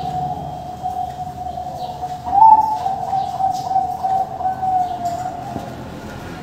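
Zebra dove (perkutut bangkok) cooing in a steady low run of notes, with a louder, higher note about two and a half seconds in.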